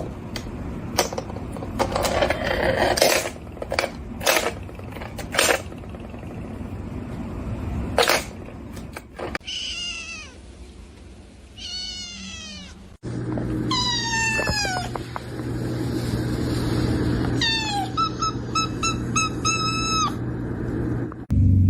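Cats meowing: several falling meows in the second half, ending in a quick run of short, evenly spaced meows. Sharp knocks and clattering come before the meows.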